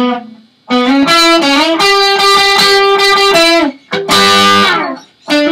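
Overdriven electric guitar playing a lead-solo phrase: a run of quickly picked notes, then a separate ringing note about four seconds in, and another phrase starting near the end.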